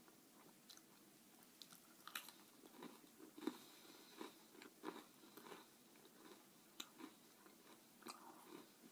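Faint chewing of a bitten graham-cracker Oreo cookie, with small crunches scattered irregularly through it.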